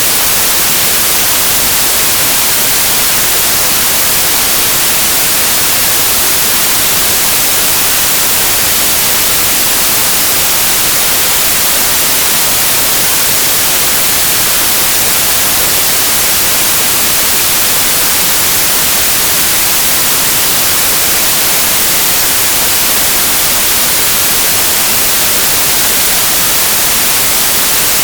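Steady white noise: an even hiss across all pitches, brightest in the highs, without any change.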